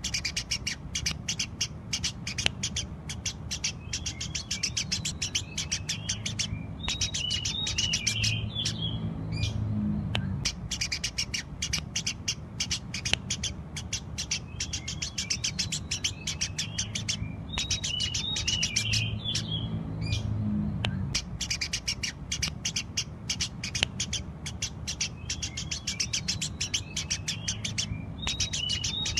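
Eurasian tree sparrows chirping rapidly and continuously, with short trilled phrases recurring about every ten seconds, over a low steady hum.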